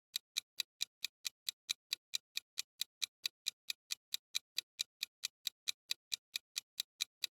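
Clock-ticking sound effect, quick even ticks at about four to five a second, like a quiz countdown timer running.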